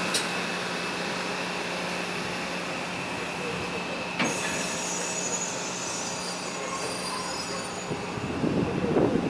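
Railroad car wheels squealing on yard track over a steady locomotive engine hum, with a sharp click about four seconds in as the high squeal begins.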